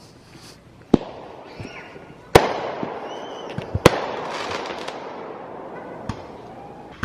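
Fireworks going off: several sharp bangs, the loudest about two and a half seconds in, followed by a spell of crackling.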